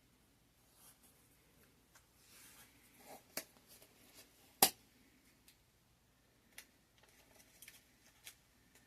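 Small handling sounds of sticky tape being pulled off and torn: short scratchy rips and scattered light clicks, with one sharp snap about four and a half seconds in.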